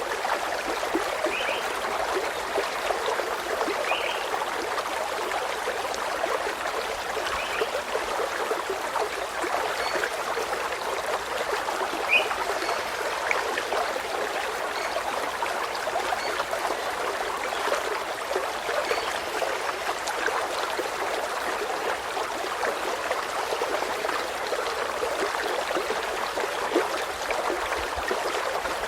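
Steadily flowing, trickling stream water, with a few short bird chirps scattered through it.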